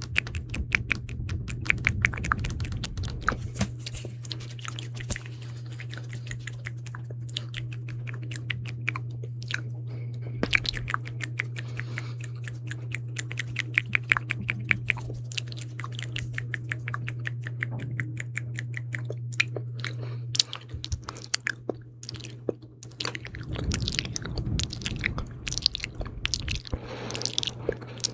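Close-miked wet mouth sounds: rapid sticky clicks and smacks from lips and tongue, coming in dense runs. A steady low hum runs under them and stops about two-thirds of the way through.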